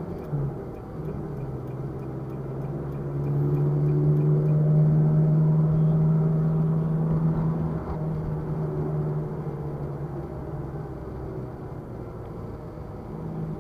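Car engine running while driving, heard from inside the cabin. It pulls harder and louder from about three seconds in, then eases off after about eight seconds. A light, even ticking is heard in the first two seconds.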